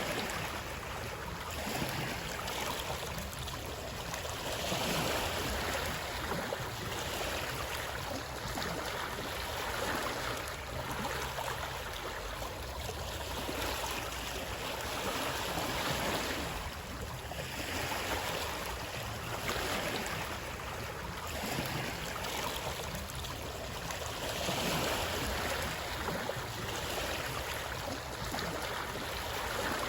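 Running water: a continuous rushing wash that swells and eases every few seconds.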